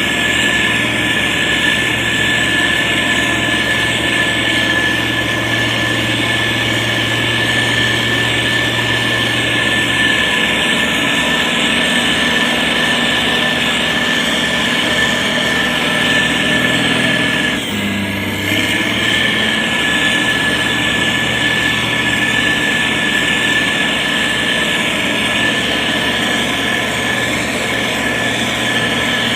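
Heavy diesel engine of a SANY STG190C-8S motor grader running steadily, with a steady high whine over it. The engine note shifts briefly about 18 seconds in.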